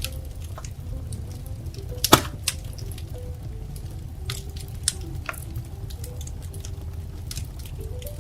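Wood fire crackling in a fireplace: scattered sharp crackles and snaps over a steady low rumble, with one loud pop about two seconds in.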